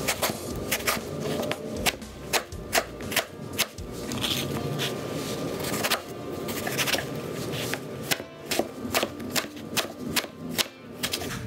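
Chef's knife dicing a Chinese eggplant on a cutting board: a run of sharp knocks of the blade on the board, two or three a second, with a short pause about four seconds in.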